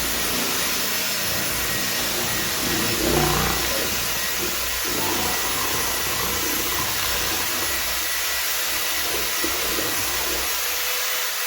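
Kobalt XTR 24-volt brushless cordless hammer drill running steadily at speed while mixing drywall mud, with a steady motor whine. It cuts off suddenly at the very end.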